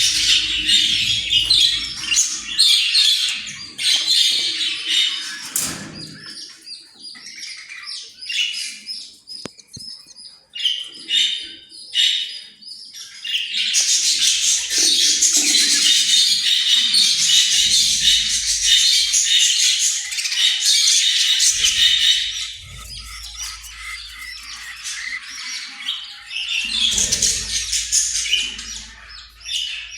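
Pet Australian parrots chirping and chattering in dense, high-pitched runs, with squawks mixed in. The calls thin out to short separate chirps about a third of the way in, then become a long continuous chatter through the middle.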